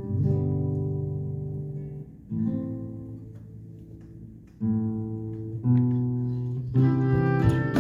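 Background music of slow guitar chords, each struck and left to ring and fade before the next, five in all.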